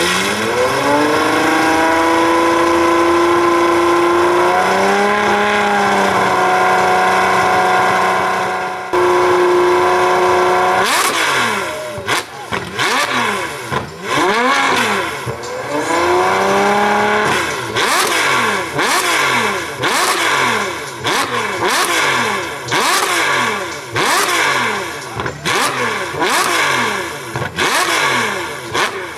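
Supercar engine revving: the pitch climbs and is held high for several seconds. From about eleven seconds in comes a long series of quick throttle blips, roughly one a second, each rising and falling.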